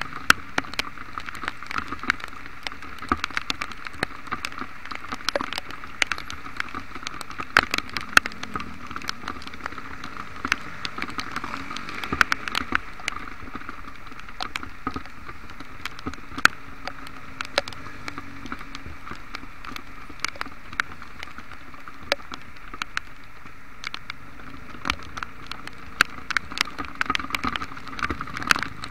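Heavy rain heard from a moving motorcycle: a steady hiss of rain and wet road with a low engine hum beneath, broken by many irregular sharp ticks of raindrops striking the camera close to the microphone.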